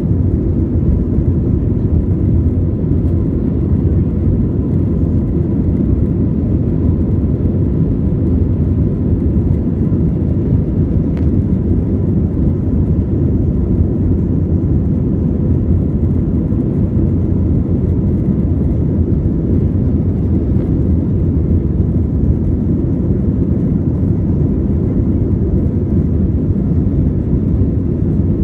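Airbus A320 engines running, heard from inside the cabin as a loud, steady low rumble that holds at the same level throughout.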